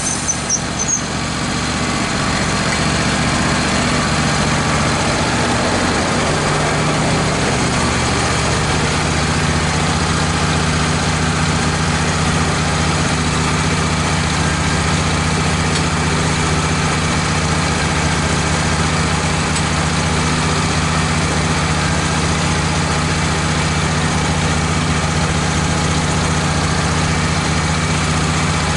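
Wood-Mizer LT15 sawmill's engine running steadily. A high hissing sound stops just after the start, and the engine note shifts between about six and nine seconds in, then holds steady.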